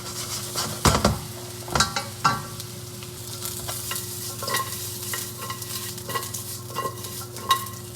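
Ginger pieces sizzling in hot chicken fat in a wok while being stirred, the utensil scraping and knocking against the pan in a string of sharp clicks, loudest about a second in and again near two seconds.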